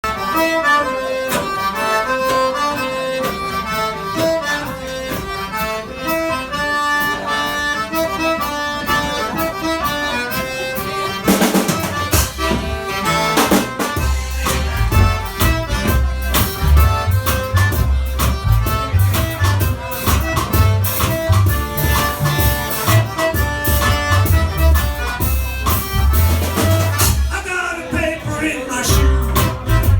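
Live Cajun band music: a free-reed instrument plays the tune alone at first, then drums come in about 11 seconds in and bass and the full band join a couple of seconds later, carrying on with a steady beat.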